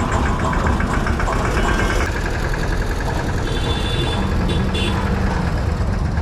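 Motorcycle engine running steadily, likely the Bajaj Pulsar RS200's single-cylinder engine, with a short high tone about three and a half seconds in.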